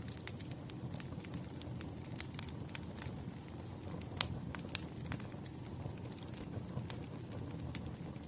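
Wood fire burning, a steady low rush of flames with irregular sharp crackles and pops from the burning logs; one pop about four seconds in is the loudest.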